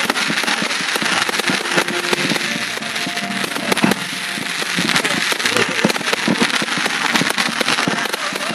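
Fireworks display: a dense, continuous barrage of rapid crackling bangs.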